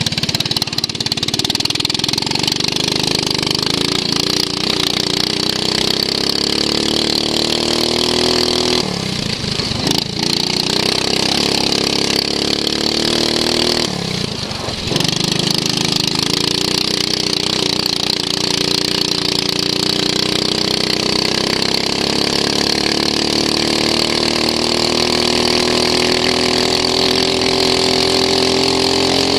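Racing lawn mower's engine heard onboard at speed, its pitch dropping sharply twice as the throttle eases off, about 9 and 14 seconds in, then rising steadily through the last stretch as it accelerates.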